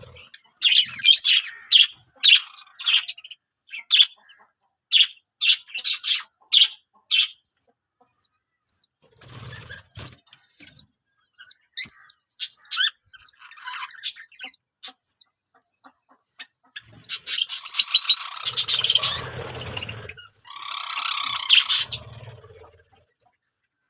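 Small birds chirping in quick repeated bursts, followed by a run of short high peeps about twice a second. Near the end comes a louder rustling stretch of a few seconds, then a shorter one.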